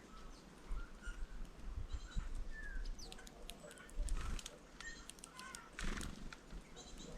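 Small birds at a feeder: scattered short high chirps and calls, mixed with sharp clicks and taps, over a low rumble with occasional thumps.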